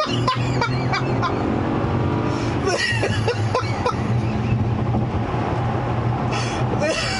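Bentley's 6-litre W12 twin-turbo engine droning steadily under way, heard from inside the cabin, with a man laughing over it.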